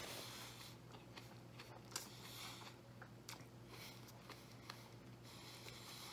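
A man chewing a mouthful of food with his mouth closed: faint, scattered wet mouth clicks and smacks over a faint steady low hum.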